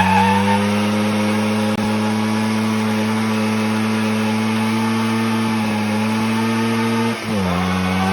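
Minsk motorcycle's two-stroke single-cylinder engine (MMVZ 3.112.11 with a Yamaha YB100 piston) held at steady high revs during a burnout in second gear. About seven seconds in, the revs dip sharply for a moment, then climb back.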